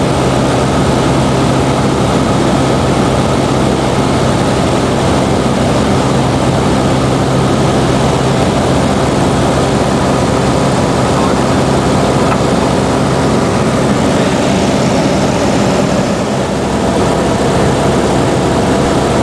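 Cessna 172 SP's four-cylinder Lycoming engine and propeller droning steadily, heard from inside the cockpit.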